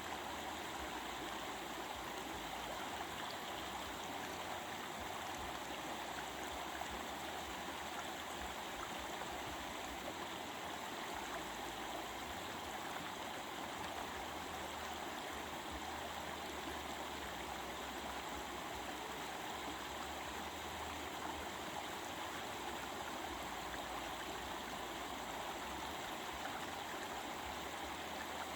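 A stream of running water flowing steadily, an even, unbroken rush.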